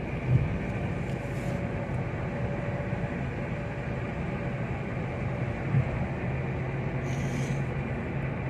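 A car driving along at speed: steady engine and road noise.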